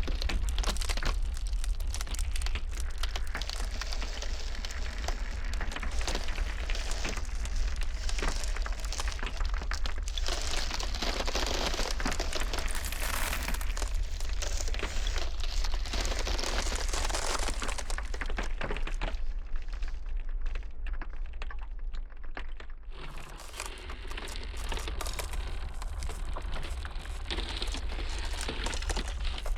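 Ice cracking and crackling in dense runs over a steady low wind rumble, with a duller, quieter stretch about two-thirds of the way through.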